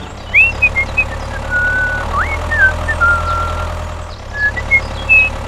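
A steady engine-like hum runs underneath, and over it comes a string of short, high whistled chirps with rising and falling glides, which are the loudest sounds.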